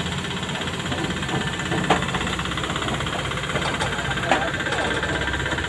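Heavy-haul transformer-transport truck's diesel engine running loud and steady under its heavy load, with two sharp knocks about two and four seconds in. The sound is 'ngeri' (frightening).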